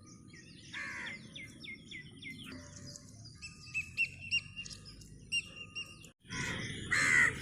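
Wild birds chirping over a steady outdoor background: quick falling chirps, then a run of short repeated notes midway through.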